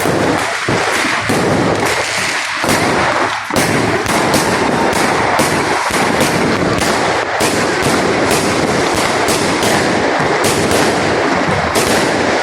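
Fireworks and firecrackers going off in a rapid, unbroken crackle of bangs, many sharp reports a second.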